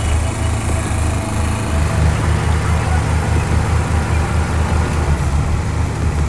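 Heavy diesel engine of a heavy-haul truck running steadily, with a low, evenly pulsing throb.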